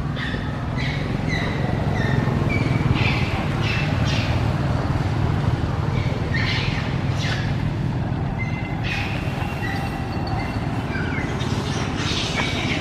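Short, high-pitched squeaking calls, some dropping in pitch, come in clusters over a steady low rumble.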